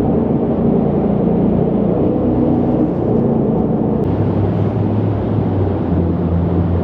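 Jet boat's engine running steadily under way, with the tone of the engine shifting lower and stronger about four seconds in as it changes speed.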